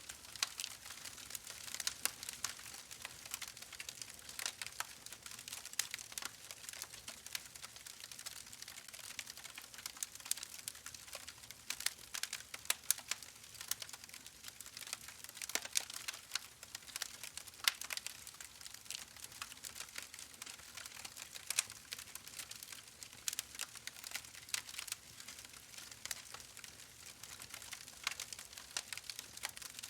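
Faint crackling: irregular small clicks and pops, several a second, with no steady hum or wash beneath.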